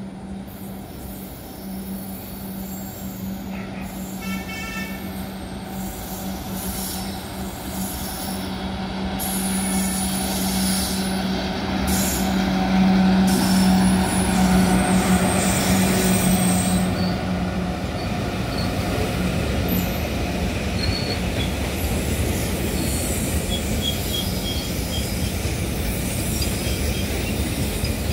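Electric freight locomotive approaching and passing close by with a steady hum, loudest as it goes past, then container wagons rolling by with continuous wheel-on-rail noise.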